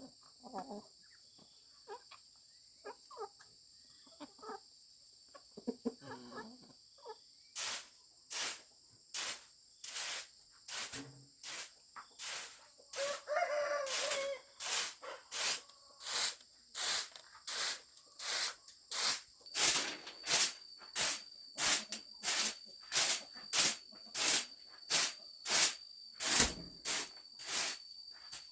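Steady insect trilling, with a rooster crowing about thirteen seconds in. From about eight seconds, a repeated work noise of short strokes, about three every two seconds, that grows louder toward the end.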